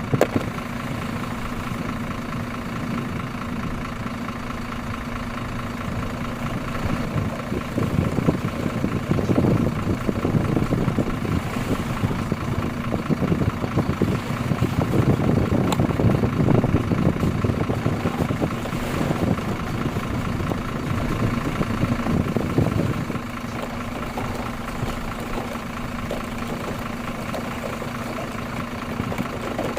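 Engine idling sound: a steady hum that grows louder and rougher from about seven seconds in until about twenty-three seconds, then settles back.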